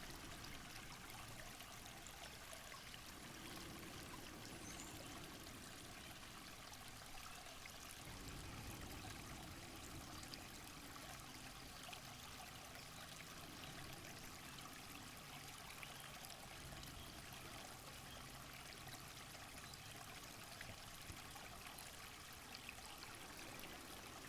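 Faint, steady rushing of running water, like a small stream.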